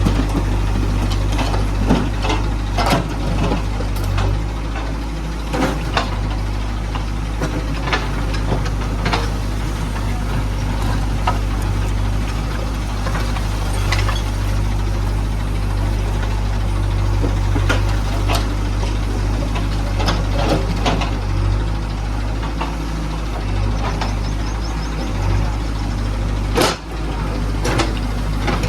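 Diesel engine of a JCB 3DX backhoe loader running steadily, with scattered sharp knocks and clanks, the loudest near the end.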